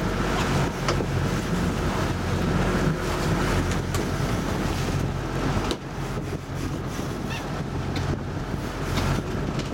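A boat's motor running steadily, with wind on the microphone and water around the hull.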